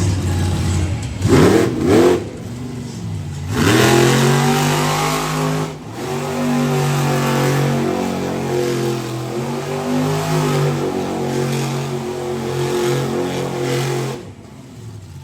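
Monster truck engine revving: two quick blips about a second in, then a surge to high revs held for about ten seconds before it drops off near the end.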